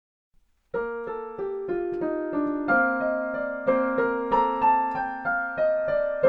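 Solo piano playing the slow introduction to a Christmas carol: a melody of single notes over sustained lower notes, starting about a second in.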